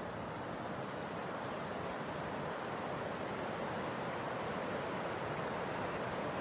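Steady rushing noise, slowly growing a little louder.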